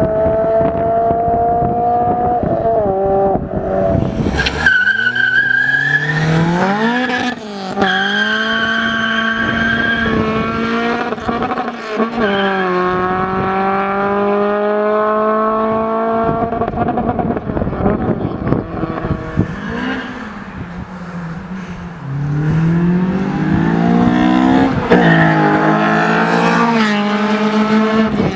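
Car engines revving hard through the gears, the pitch climbing, dropping at each shift and climbing again, in a run of short clips cut together.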